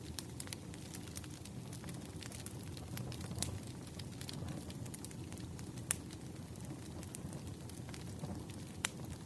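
Wood fire crackling: a steady low rumble of burning logs with scattered sharp pops and snaps, a few louder pops standing out.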